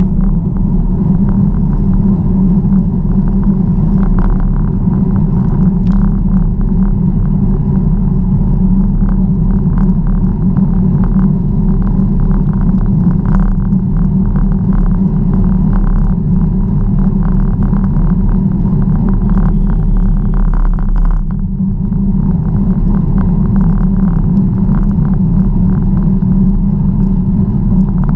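Steady low rumble of wind on the microphone and tyres on the road while riding a bicycle, with frequent small clicks and rattles.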